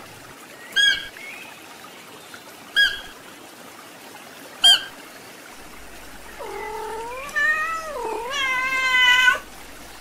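Domestic cat meowing in a long drawn-out call in the second half, its pitch dipping and rising again. Earlier come three short, sharp, high chirps about two seconds apart, louder than the meow.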